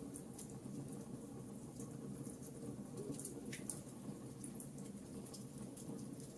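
Wood fire in a fireplace crackling, with a steady low rumble of burning and scattered sharp pops and snaps, one sharper pop about halfway through.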